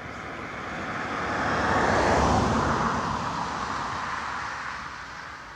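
A passing vehicle: a rushing noise that swells to a peak about two seconds in, then slowly fades.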